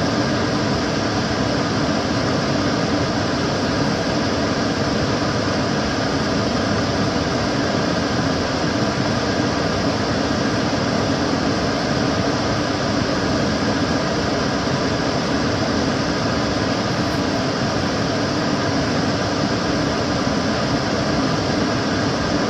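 Kitchen cooker hood extractor fan running steadily: a constant whoosh of rushing air with a low hum beneath, unchanging throughout.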